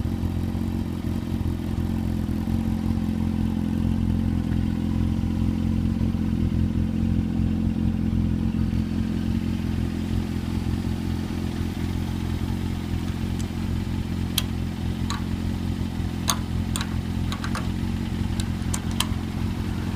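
Honda CB400 Super Four's inline-four engine idling steadily through an aftermarket Combat muffler. A few sharp clicks sound in the second half.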